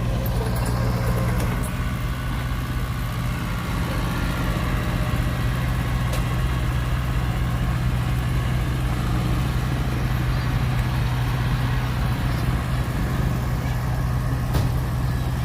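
Heavy diesel engine of earthmoving machinery running steadily at one speed, a constant low hum with no revving.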